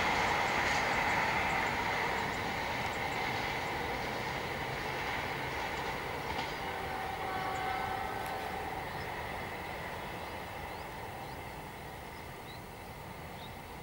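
Passenger train of PT KAI coaches running away along the track, its rumble and rail noise fading steadily.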